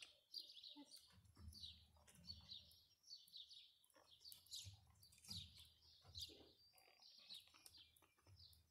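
Songbirds chirping faintly in quick, repeated phrases, with a low rumble coming and going underneath.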